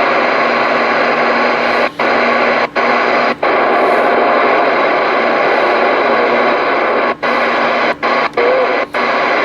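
Stryker SR-955HPC CB radio receiving on channel 19 with the squelch open: loud steady static hiss from its speaker. The hiss cuts out briefly several times, three times about two seconds in and four times near the end.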